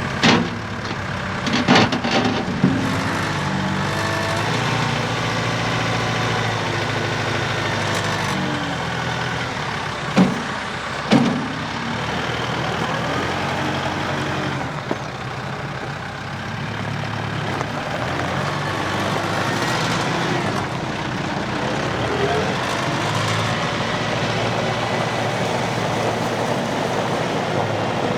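Kubota M7060's four-cylinder turbo diesel engine running, its speed stepping up and down, with a few sharp mechanical knocks near the start and again about ten and eleven seconds in.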